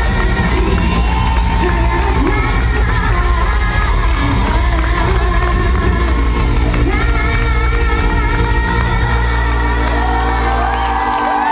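Live pop song played loud through a venue's sound system, with a woman singing over sustained keyboard and a heavy bass, and the crowd faintly shouting. The deep bass drops out near the end.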